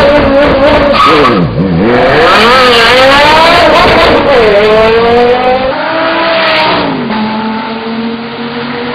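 High-performance car engine revving hard, its pitch dropping and climbing several times as it accelerates through gear changes. It then grows quieter and steadier after about six seconds.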